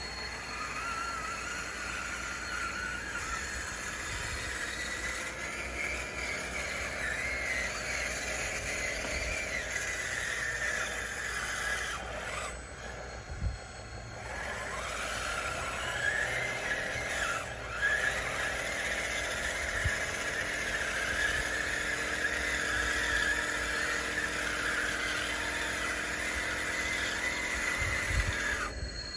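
RC bulldozer's motors whining as it pushes dirt, the pitch drifting up and down with the load and dropping briefly about halfway through.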